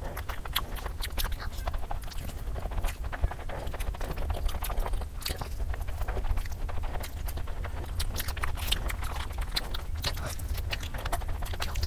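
Close-miked chewing and biting of spicy fried noodles and fried chicken: a dense run of irregular wet mouth clicks and smacks, over a steady low hum.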